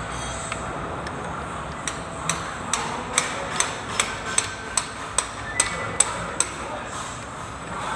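Light hammer taps in a steady run, about a dozen strikes at roughly two or three a second, starting about two seconds in and stopping after six seconds.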